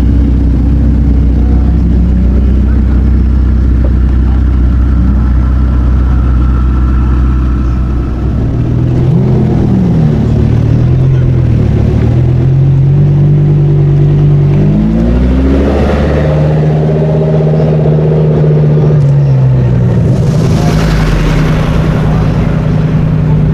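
A car engine idling steadily, then revved in several short blips, its pitch rising and falling, before settling into a steady, higher hum; a brief hissing rush comes near the end.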